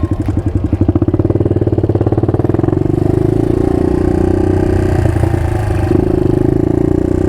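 Suzuki DR200's single-cylinder four-stroke engine running as the bike is ridden, with a rapid, even pulsing of firing strokes.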